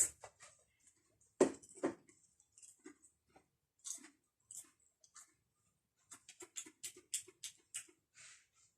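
Someone chewing a Pringles crisp with the mouth close to the microphone: a string of short, sharp crunches, two louder ones about a second and a half in and a quick run of them near the end.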